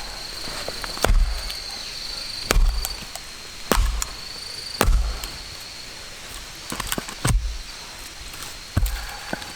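Irregular blows of a blade striking wood, about six sharp knocks with a dull thud: firewood being chopped or split from a fallen tree. A steady high whine runs under the first half.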